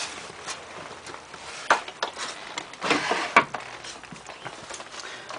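A few irregular plastic clicks and knocks as the small plastic access door over the washing machine's drain pump is handled, with a cluster of knocks about three seconds in.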